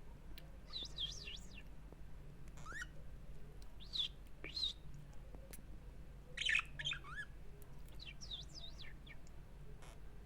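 Budgerigars chirping and warbling in short bursts of quick rising and falling chirps, with pauses between them.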